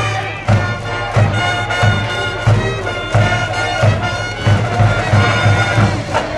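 School brass band playing a baseball cheer song, with held brass notes over a steady bass-drum beat.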